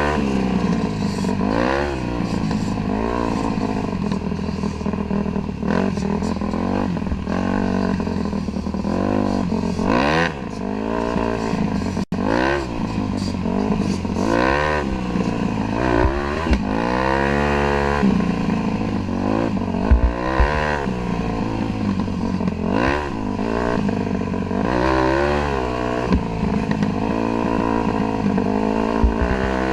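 Dirt bike engine being ridden, revving up and falling back again and again, its pitch climbing and dropping every second or two as the throttle is worked.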